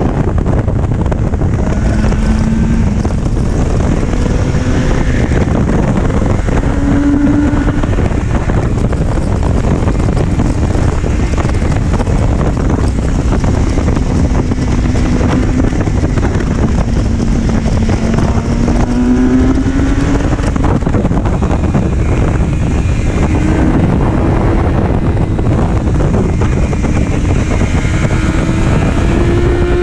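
Motorcycle engine accelerating and easing off repeatedly, its pitch rising and falling, under heavy wind rumble on the microphone.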